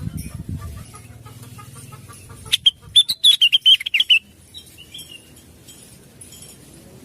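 Blue-winged leafbird (cucak wilis) singing: a quick run of sharp, chattering notes starting about two and a half seconds in and lasting under two seconds, with a few faint notes after. A low rumble lies under the first second.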